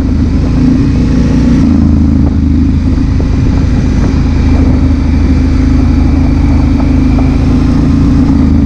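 Honda Africa Twin CRF1000L's parallel-twin engine running steadily under way, with a rush of wind and road noise over it.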